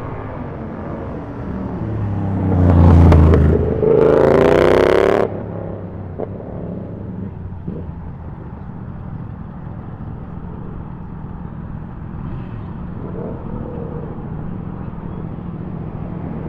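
Superbike engine revved hard in two loud bursts about three and four seconds in, the second cutting off sharply. A steady low rumble of idling engines runs under it and after it.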